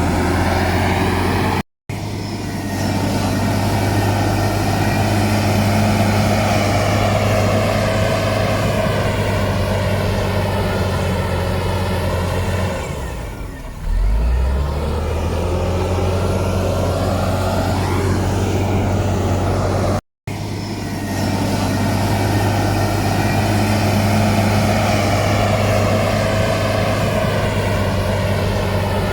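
Heavy diesel engine of earthmoving machinery running hard. It eases off briefly about halfway through, then climbs back up in pitch. The sound drops out abruptly for a moment twice.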